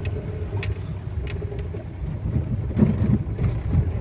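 Tata Zest petrol car running on the road: a steady low rumble of engine and road noise, with a few light clicks and knocks.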